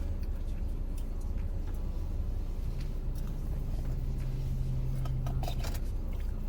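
Steady low rumble of a car engine idling, heard inside the cabin, with a steady hum in the middle and a few small clicks and rustles about five seconds in.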